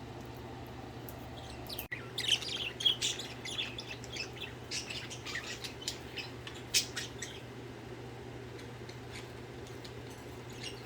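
Pet budgerigars chirping in a quick run of short, high calls for about five seconds, starting about two seconds in and thinning out after that, over a steady low hum.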